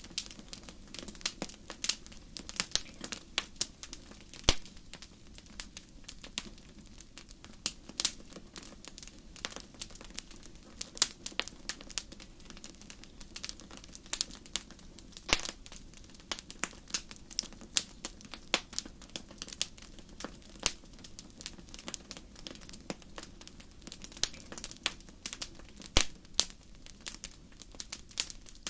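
Fire crackling in a fireplace: frequent, irregular sharp pops and snaps, a few louder ones standing out, over a low steady rumble.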